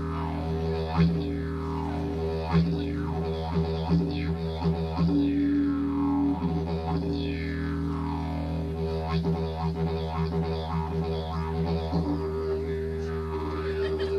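Didgeridoo played as a continuous low drone, with rhythmic accents and repeated falling sweeps in its overtones.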